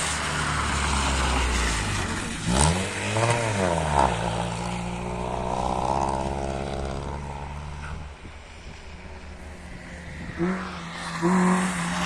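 Rally car engine revving hard, its pitch climbing and falling back about three seconds in, with a couple of sharp cracks, then holding a steady note that fades away.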